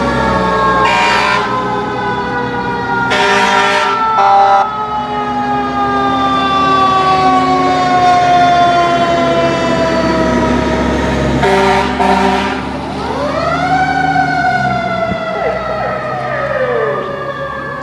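Fire truck sirens wailing, one siren's tone sliding slowly downward throughout. Air horns blast several times, and about thirteen seconds in another siren winds up and falls away.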